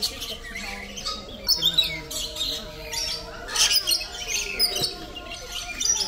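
Birds squawking in harsh bursts, loudest about a second and a half in and again around three and a half to four and a half seconds in.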